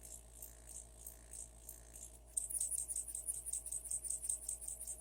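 Small D K Machine Products toy steam donkey engine running on compressed air, its exhaust puffing in a quick, even rhythm. About two seconds in, the puffs get louder and come faster.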